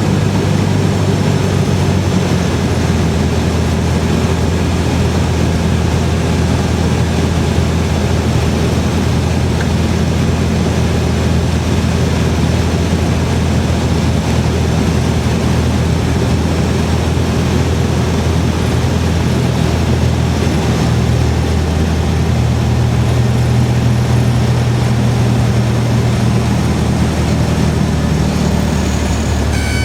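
Cessna 172R's four-cylinder engine and propeller droning steadily. Near the end a high steady warning tone comes in, the stall warning horn sounding as the plane is flared for touchdown.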